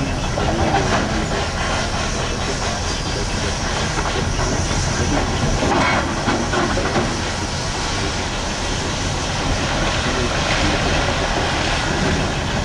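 Mining shovel working at the face while loading haul trucks: a steady deep rumble and hiss of heavy machinery with rattling and clanking, and a louder crash about six seconds in.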